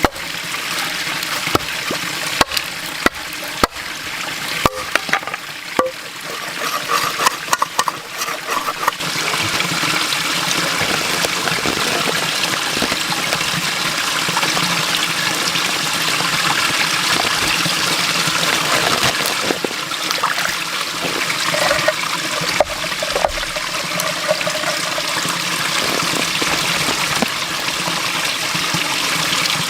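Water running and splashing. It comes with a string of sharp knocks and clicks for about the first nine seconds, then turns into a steadier, louder rush.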